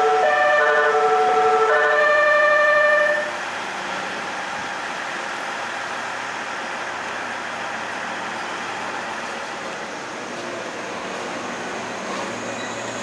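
A short electronic chime melody of a few notes plays loudly for about three seconds and then cuts off. A steady hum from the Kirakira Uetsu's 485-series electric train follows, and it grows a little louder near the end as the train starts to pull out.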